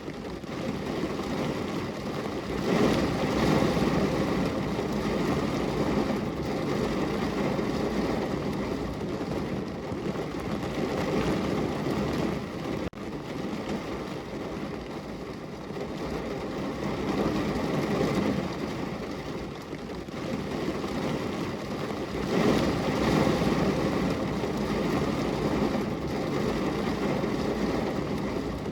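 Super heavy rain pouring down as a steady dense rush, swelling louder twice, near the start and again late on.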